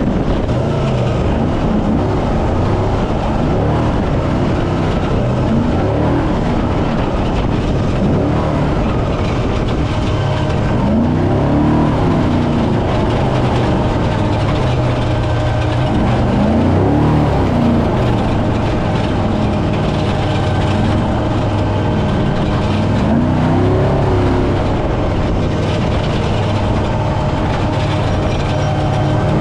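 Brenthel 6100 trophy truck's engine revving up and falling back again and again as the truck is driven hard, over a constant heavy rush of driving noise.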